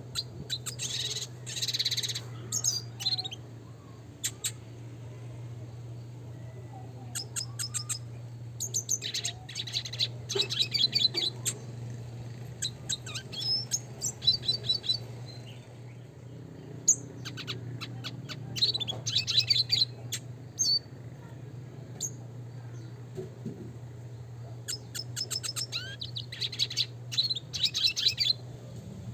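Red siskin (Spinus cucullatus) singing in repeated phrases of rapid, high twittering chirps with short pauses between them, over a steady low hum.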